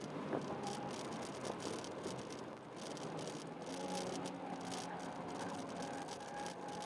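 Honda Jazz 1.3-litre four-cylinder engine running steadily under way, with road and tyre noise and light rattling throughout. It eases off briefly about two and a half seconds in.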